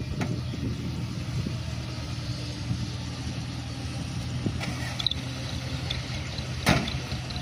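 Mitsubishi Canter dump truck's diesel engine running steadily at low revs, with one sharp knock near the end.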